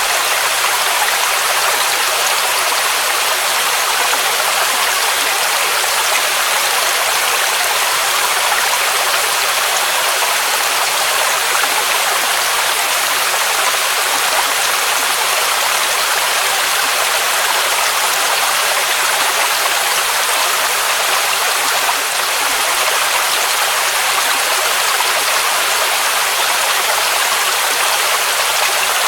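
Waterfall, water rushing in a steady, unbroken stream, hissy and bright with little low rumble.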